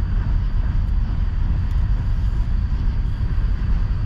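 Steady low outdoor rumble with no distinct events; no rocket is launching or bursting.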